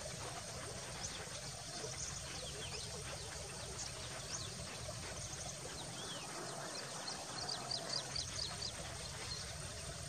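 Wild birds chirping and calling outdoors: many short, high chirps and quick pitch sweeps over a steady background hiss, with a quick run of short notes about seven to nine seconds in.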